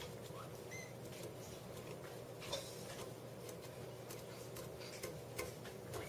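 A tiny kitten lapping water, a run of small irregular wet ticks, with one short high squeak just under a second in.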